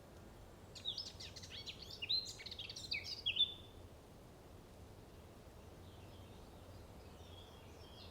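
A songbird singing a rapid run of sweeping high notes for about three seconds, then fainter twittering near the end.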